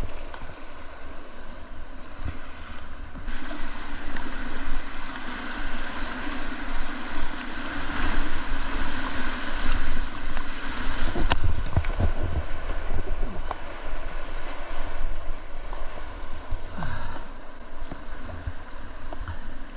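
River rapids rushing steadily around a kayak at high flow (about 1500 CFS), swelling louder in the middle, with a low rumble of wind on the microphone and a few brief knocks toward the end.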